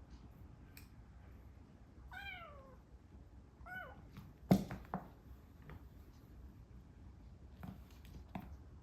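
Kitten mewing twice: a high mew falling in pitch about two seconds in, then a short one. A loud thump about halfway through is followed by a few lighter knocks, typical of kittens play-fighting and landing on furniture or the floor.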